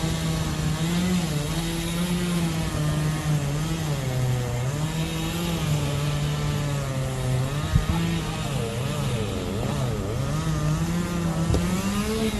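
An engine running without a break, its pitch wavering up and down, with a hiss of noise over it.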